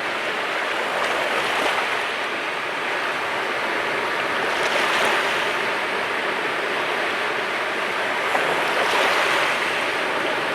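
Sea waves washing onto the shore in a steady rushing wash, swelling as waves break about five seconds and nine seconds in.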